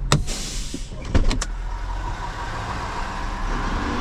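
Tow truck engine running steadily, with a sharp click at the start and a quick run of clicks and knocks just over a second in.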